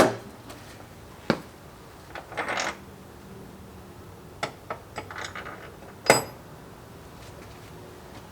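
Steel cab-mount bolts clinking and rattling as they are handled and tried in the body mount: three sharp metallic clinks near the start, about a second in and about six seconds in, the last one ringing briefly, with softer rattles between.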